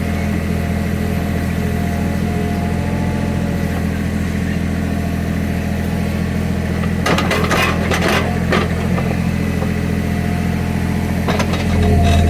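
Small Caterpillar excavator's diesel engine running steadily, with a short cluster of clanks and scrapes about seven to eight seconds in and a few more near the end. Just before the end the engine note gets louder and a higher whine joins it as the machine comes under load.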